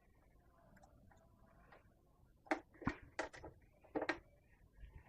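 About half a dozen sharp metallic clicks and taps, mostly in the second half, from a 12 mm wrench working the mounting bolts of a motorcycle's stock exhaust.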